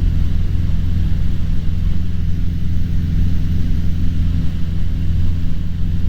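Cessna 150's Continental O-200 engine and propeller droning steadily in cruise, heard from inside the cabin.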